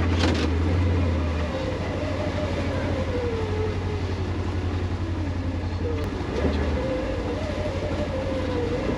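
Polaris Ranger XP 1000 UTV running as it drives along a trail, with a steady low engine hum and a whine that drifts up and down in pitch. A few light clicks and knocks come from the vehicle.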